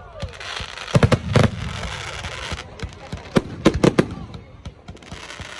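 Fireworks going off: a string of sharp bangs, three close together about a second in and three more near the middle, over a crackling hiss that fades partway through.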